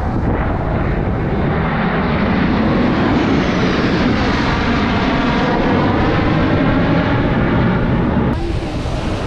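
Low-flying display airplane passing, a loud engine rush whose pitch slowly shifts as it goes by; it cuts off abruptly about eight seconds in.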